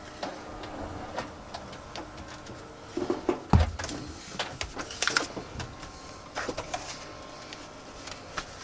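Paper being handled and pressed as a paper pocket is glued into a handmade journal: light rustles, clicks and taps, with a dull thump about three and a half seconds in.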